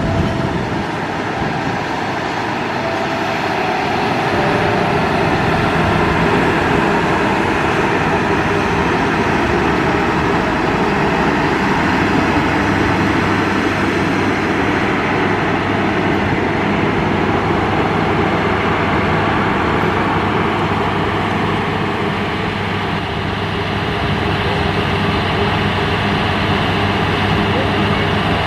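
Diesel-hauled passenger train passing close by: a continuous, loud rumble of coaches on the rails with a steady low engine hum, holding level as the train's power car goes by and away.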